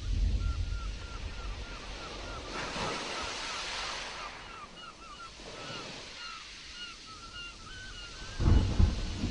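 Stormy sea surf washing steadily, with a wave surging in about three seconds in, while a bird calls a long series of short repeated notes, about two a second. A low rumble comes near the end.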